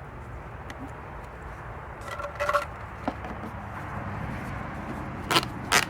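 Handling noises over a steady low rumble: a brief squeaky scrape about two seconds in, then two sharp clicks near the end.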